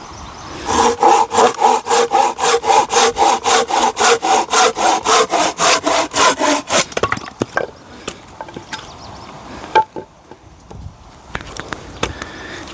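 Hand saw cutting through a log in fast, even strokes, about five a second, for about six seconds, then stopping. A few light knocks and one sharp click follow.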